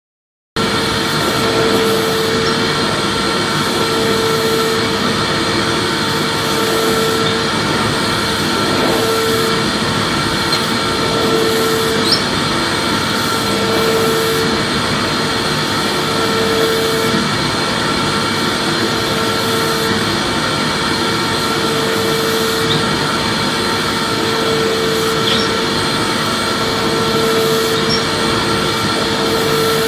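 Vacuum cleaner running steadily after starting abruptly about half a second in. It gives an even rushing hum with a mid-pitched tone that wavers on and off about once a second.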